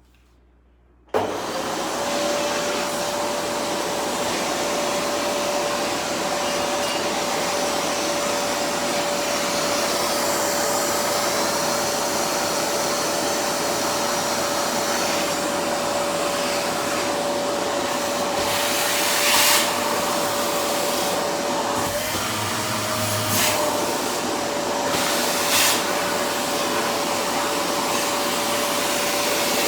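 Vacuum cleaner switched on about a second in, then running steadily with a constant motor whine. Several brief louder rushes of hiss come in the second half as the pipe sucks at things.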